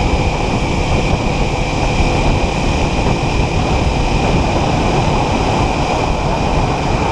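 Steady wind rush over a rider's helmet microphone with the Kawasaki Ninja 400's parallel-twin engine running at a constant cruising speed.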